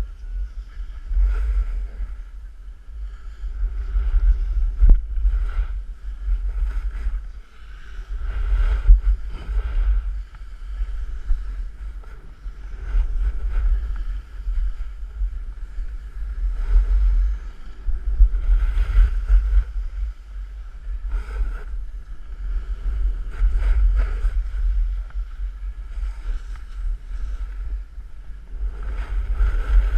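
Wind buffeting the microphone during a fast snowboard descent, with the board's edges scraping and hissing over packed snow in swells every second or two as the rider turns.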